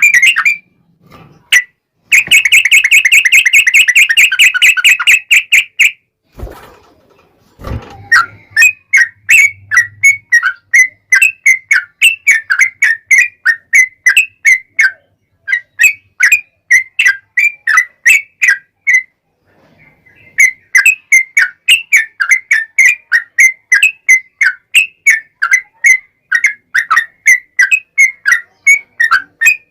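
Yellow-vented bulbul (trucukan) song: a fast continuous trill, then long runs of quick repeated chattering notes, about three or four a second, with a short pause partway through.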